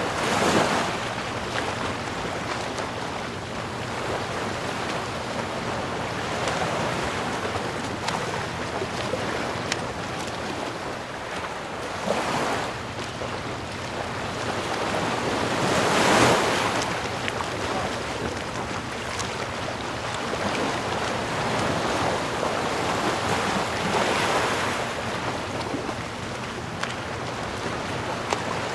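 Ocean waves washing ashore over a steady hiss of surf, with a wave breaking louder about a second in and others near 12, 16 and 24 seconds.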